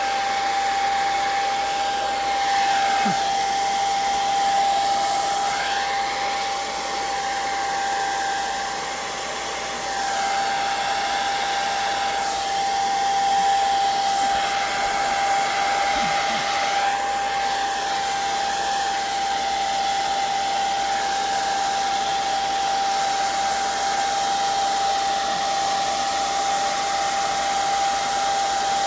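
Hair dryer running on its low setting: a steady whine over the hiss of its airflow, which shifts in tone now and then. It is slightly quieter for a few seconds about a third of the way in.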